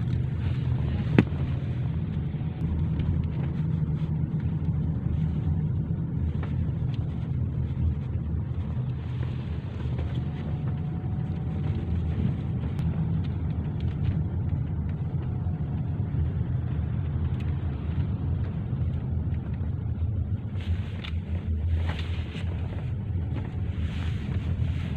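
A car driving, with a steady low rumble of engine and road noise and a single sharp click about a second in.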